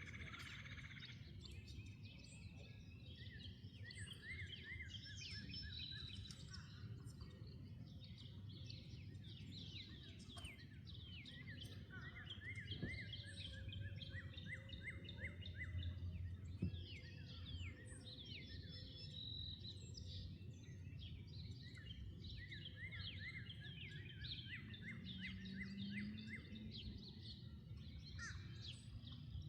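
Several songbirds chirping and singing in quick, repeated phrases throughout, fairly faint over a steady low background rumble.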